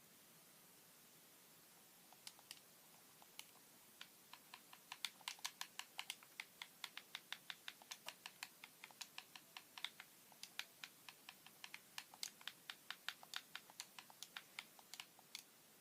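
Light, sharp clicks in a quick, fairly even run of about four a second, like typing on a keyboard. They start sparsely about two seconds in and stop just before the end.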